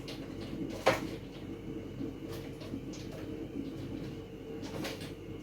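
Kitchen handling sounds: a single sharp knock about a second in and a few lighter clicks, over a steady low hum.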